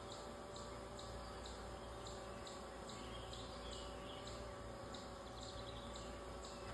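Faint steady hum of a honeybee swarm, with a high chirp repeating evenly about twice a second.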